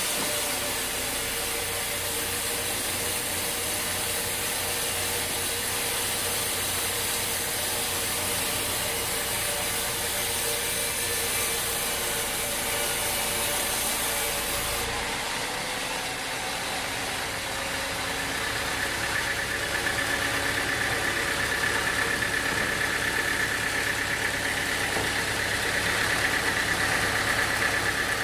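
Sawmill machinery running steadily, with an engine-like drone. About halfway through the sound changes, and a steady high whine comes in and grows slightly louder toward the end.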